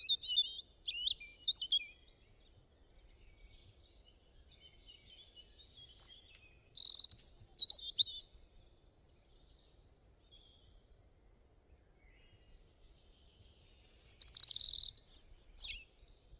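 Songbird singing in three bouts of quick, varied, high warbling phrases, with quiet gaps between them.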